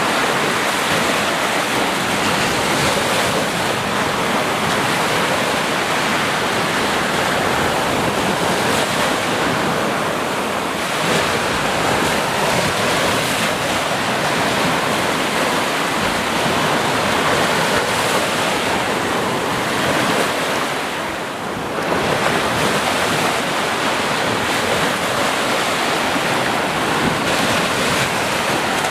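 Ocean surf: waves breaking and washing in a steady, dense rush, easing briefly about three-quarters of the way through before swelling again.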